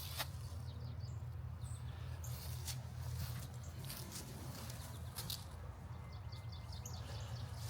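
Outdoor ambience: a bird gives a quick series of short high chirps about five seconds in, with scattered light clicks and crunches over a steady low rumble.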